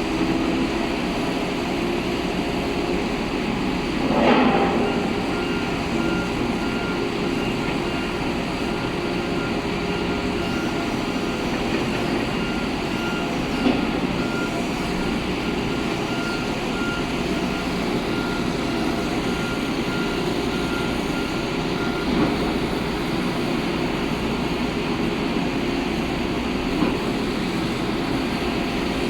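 Heavy diesel construction machinery at a pile-drilling site running steadily, with a vehicle's reversing alarm beeping from about five seconds in until about twenty-two seconds. A loud clank comes about four seconds in, and a few sharper knocks follow later.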